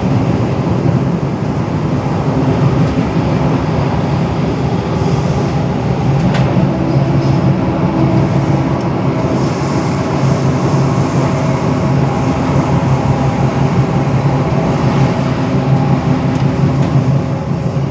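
Singapore underground metro train running: a steady rumble with a low hum from the running gear, and a brief click about six seconds in.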